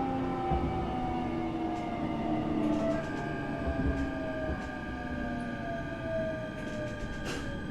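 Interior of an electric train: the traction motors' whine slowly falls in pitch over low running rumble, as when the train is slowing down. A steady high tone joins about three seconds in, and a few short clicks come near the end.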